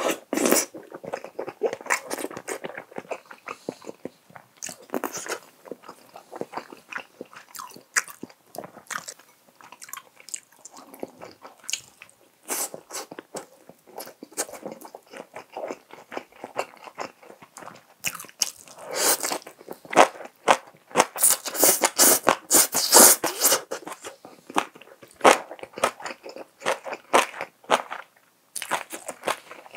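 Close-miked chewing and wet mouth sounds of a man eating spicy stir-fried tofu and rice, a steady run of irregular smacks and clicks. They grow louder and denser for several seconds about two-thirds of the way through.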